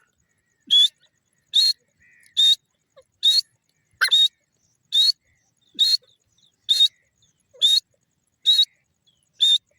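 Grey francolin calling: a short, shrill high note repeated steadily, about once a second.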